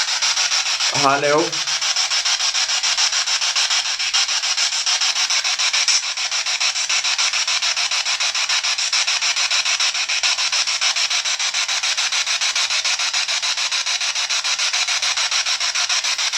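Steady, rapidly chopped static hiss from a ghost-hunting spirit box sweeping through radio frequencies.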